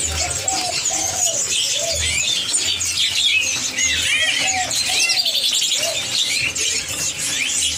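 Many caged songbirds chirping and twittering at once, a dense chorus of quick high whistled notes, with lower arched call notes repeating underneath.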